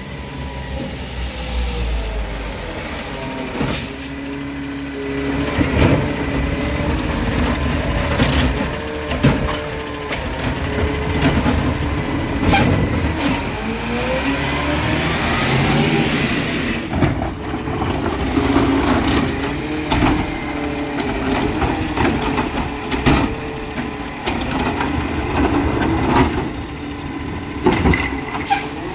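Freightliner 108SD garbage truck with a McNeilus ZR side loader at work: its diesel engine rises and falls in pitch again and again, with repeated sharp knocks and bangs throughout.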